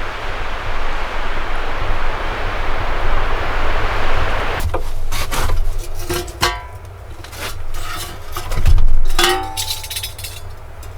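A steady rushing noise, then from about halfway in a series of knocks and metallic clanks, several with a short ringing tone, the loudest a heavy thump near the end.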